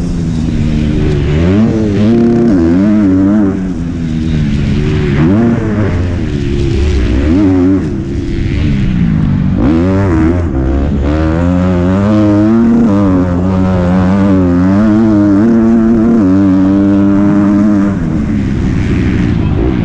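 MX2 motocross bike engine under racing throttle, its pitch rising and falling again and again as the rider opens and closes the throttle, with brief drops in loudness about 4 and 8 seconds in.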